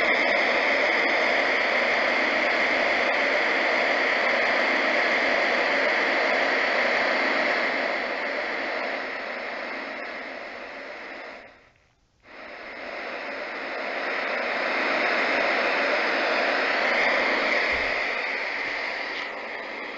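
Homedics Sound Spa portable sound machine playing its white noise setting: a steady, even hiss. It fades down to near silence about twelve seconds in, then quickly rises back up.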